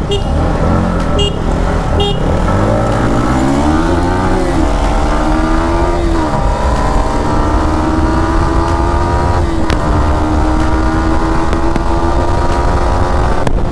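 Yamaha MT-15 v2's 155 cc single-cylinder engine accelerating at full throttle from a rolling start, its pitch climbing and dropping at two quick upshifts in the first six seconds, then holding high revs. Heavy wind rush on the bike-mounted microphone runs underneath.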